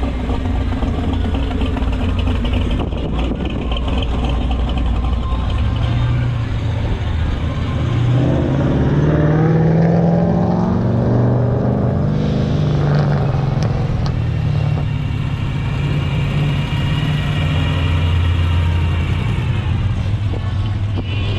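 Car engine running with a low rumble, revving up about eight seconds in with a rising pitch and settling back after a few seconds.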